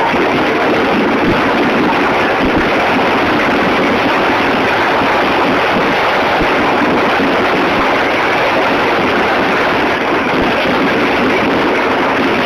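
Dense, unbroken noise of a star-mine fireworks barrage with heavy rain, the rapid bursts blurred into one steady wash by a flip phone's small microphone, which keeps almost none of the bass.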